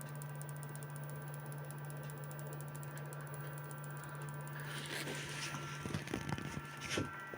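High-voltage supply from a television's anode circuit running at about 25 kV: a steady low hum under a fast, fine ticking crackle of discharge still leaking somewhere in the setup. From about five seconds in, a hiss and a few sharp knocks join it.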